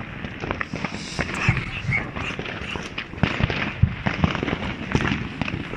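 New Year's fireworks going off in quick succession: a dense, irregular string of bangs and crackles with no pause.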